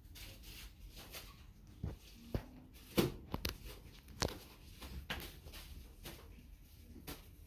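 Scattered light knocks and clicks of grocery items being handled and set down, with the strongest knock about three seconds in.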